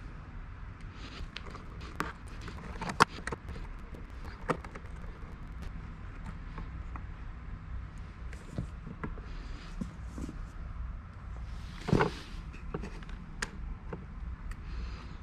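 Scattered light clicks and knocks of small hardware being handled and worked on, as during a Mac Mini RAM upgrade, over a steady low hum. The sharpest knocks come about three seconds in and near the end.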